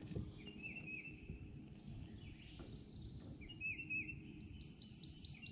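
Birds calling faintly: short down-slurred chirps come in small groups, and near the end a fast run of high notes repeats about five times a second.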